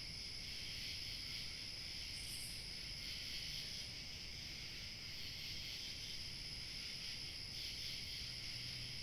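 Crickets chirping in a dense, steady evening chorus, with a thinner, higher insect trill above it that drops out for about two seconds midway, over a low, even background rumble.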